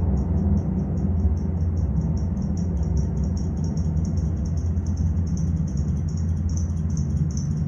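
Home-theater speaker playing back demo content: a deep, steady rumble with a rapid high-pitched ticking pattern, about six ticks a second.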